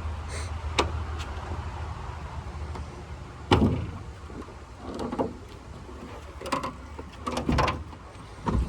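Car hood being released and opened: a loud clunk about three and a half seconds in, then several smaller knocks and clicks as the latch is worked and the hood is lifted. A low steady hum runs underneath for the first few seconds.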